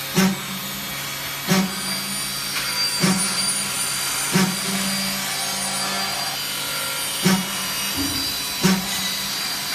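3-axis CNC milling machine cutting aluminum: steady spindle and cutting noise with a thin high whine, broken by a sharp knock about every second and a half.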